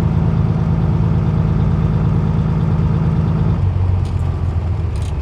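Peterbilt 379's Cat C-15 diesel engine running with a steady drone; about three and a half seconds in, its note drops lower in pitch.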